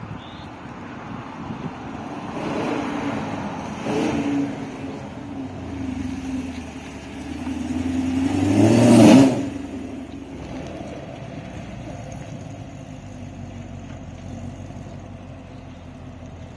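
LT1 Camaro V8 through 1 7/8-inch long-tube headers and a MagnaFlow muffler ahead of the factory exhaust, idling and being revved. There are short revs about two, four and six seconds in, then a longer rev that peaks about nine seconds in and drops back to a steady idle.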